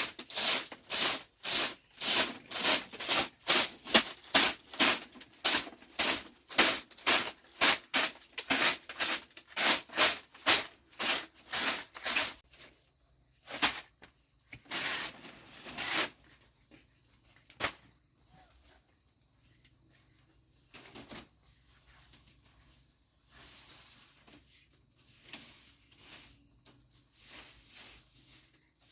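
Rhythmic scraping strokes, about two to three a second, for roughly twelve seconds, then a few scattered scrapes while crickets chirp steadily in the background.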